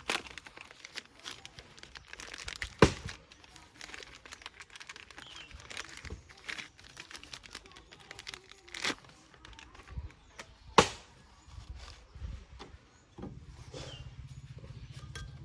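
Handling noises of tools and parts: a few sharp knocks, about three, nine and eleven seconds in, amid rustling and crinkling. A low steady hum starts near the end.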